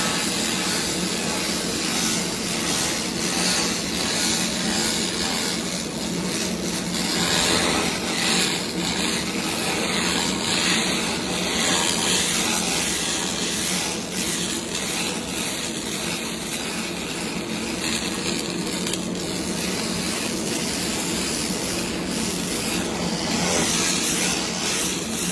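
300 W pulsed laser cleaner ablating paint off a wooden surface: a steady hissing crackle over a steady low hum.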